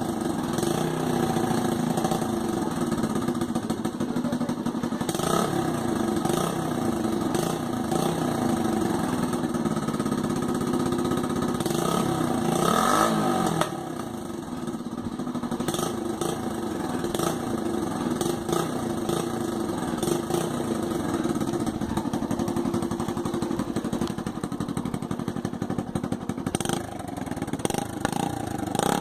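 Small motorcycle engine running with the throttle worked up and down, the revs rising to a peak about 13 seconds in and then falling back.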